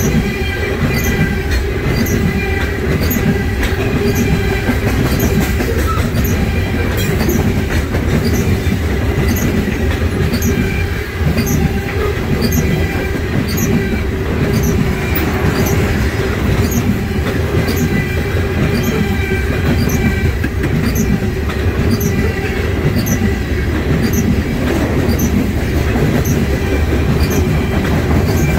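Loaded coal cars of a long freight train rolling past close by: a steady heavy rumble with regular clicking of wheels over rail joints and a steady thin squeal from the wheels.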